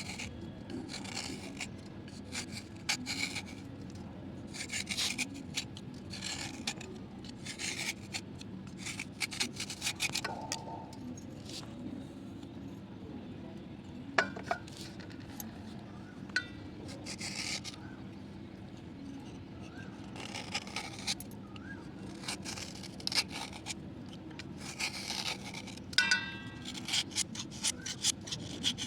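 Slate pencil sticks being scraped and rubbed in short, irregular repeated strokes, with a few sharp clicks between them.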